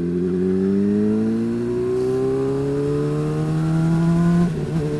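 Honda CBR sport motorcycle's engine pulling under acceleration, its pitch climbing steadily, then dropping suddenly near the end to a steady lower note.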